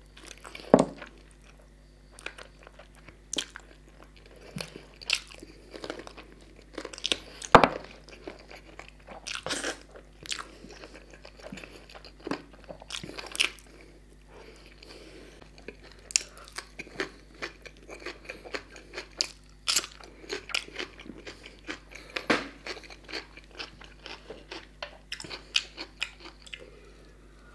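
Close-miked chewing and biting of bone-in chicken curry eaten by hand: irregular sharp crunches and clicks, the loudest about a second in and again about seven and a half seconds in. Near the end, sips from a soft-drink can.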